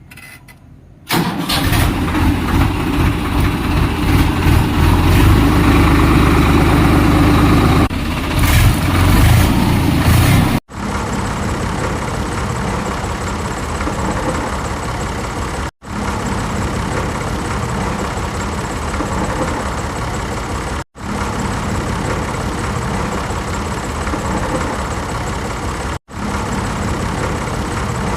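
Swaraj tractor diesel engine starting with a sudden loud burst about a second in and running unevenly, then running steadily at idle. The sound is broken by four abrupt cuts between short clips.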